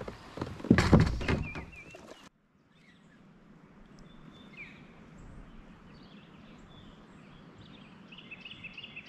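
Birds chirping over a low steady outdoor hiss, the calls coming more often near the end. Before them, a short burst of loud noise breaks off suddenly about two seconds in.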